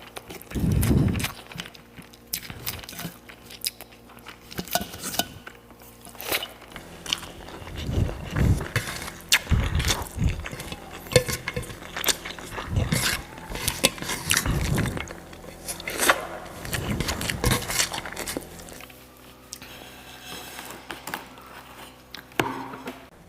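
Close-miked eating: repeated crunching bites and chewing with wet mouth sounds, easing off near the end.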